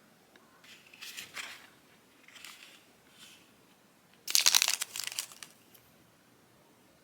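Plastic packaging crinkling as it is handled and opened, in a few short rustles and then one louder burst of crackling about four seconds in.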